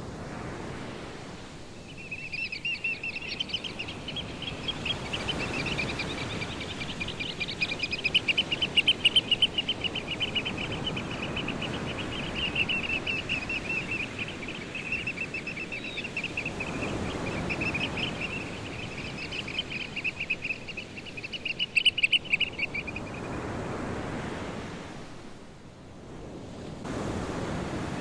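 A bird calling in a long, rapid, trilling chatter that starts about two seconds in and stops a few seconds before the end, over a steady rush of wind and surf.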